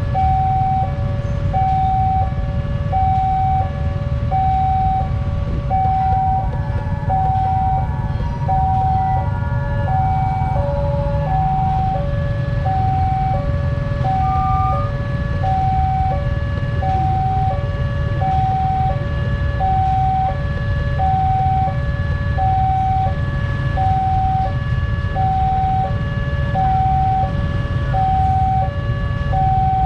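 Level-crossing warning bell sounding a steady alternating two-tone electronic signal, a higher and a lower tone taking turns about once a second, over a steady low rumble.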